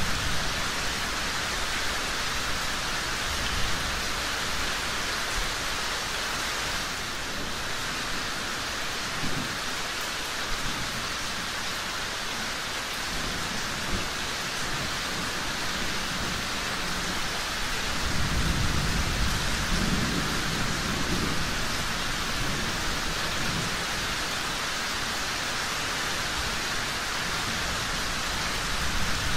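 Steady rain with a low rumble of distant thunder swelling about two-thirds of the way through, and a few scattered sharp ticks.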